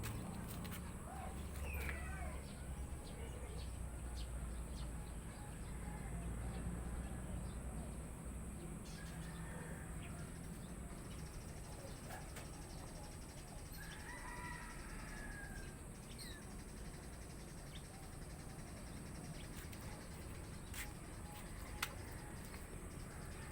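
Pet birds giving a few scattered chirps and calls, over a steady low background hum.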